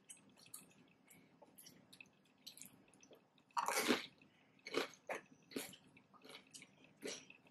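Close-miked chewing of chicken nachos: a string of short, wet mouth clicks and smacks, with one louder, noisier burst lasting about half a second a little past halfway and a few smaller ones after it.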